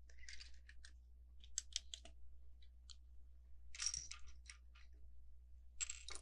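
LEGO bricks and plates clicking and clattering as they are handled and pressed together, in several short bunches of light clicks.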